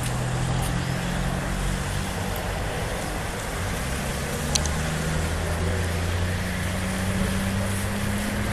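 Car engine running on the street, a steady low hum whose pitch drifts slowly, over constant traffic noise. A short click about halfway through.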